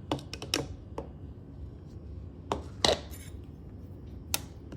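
Blender jar and lid being handled after blending: several sharp clicks and knocks, the loudest about three seconds in.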